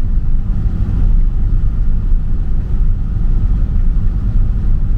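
Van's engine and road noise heard from inside the cabin while driving: a steady low rumble.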